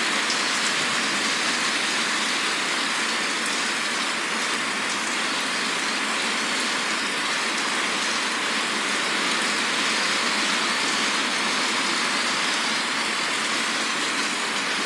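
Steady, heavy rain falling: an even, unbroken hiss that holds at one level.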